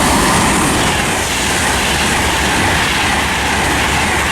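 A train passing through the station close by, a loud, steady rush of wheels on rails.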